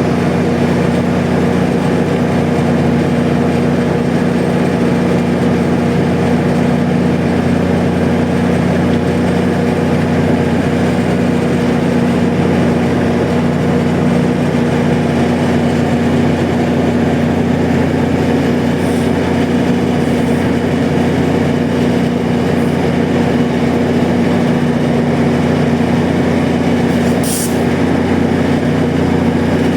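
MotivePower MP40 diesel locomotive idling with its train stopped at the platform: a steady engine hum holding several low tones. A brief high hiss comes near the end.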